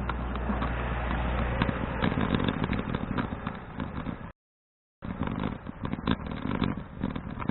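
Wind rushing over the microphone of a bicycle-mounted action camera, with road rumble and the clatter of a folding bicycle riding along. About four seconds in the sound cuts out completely for under a second, then resumes.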